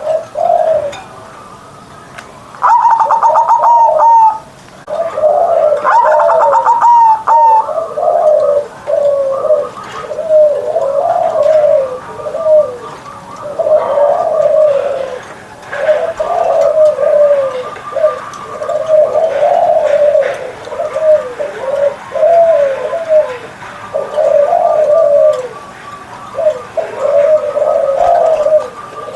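Zebra dove (perkutut) cooing, its low rolling phrases repeated one after another. Twice in the first seven seconds a louder, higher-pitched ringing call sounds over the cooing.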